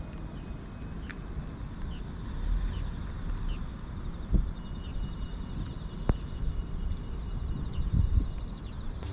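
Outdoor ambience: a steady low rumbling noise with a couple of dull thumps and a sharp click, over faint, short, high bird calls repeating about once a second.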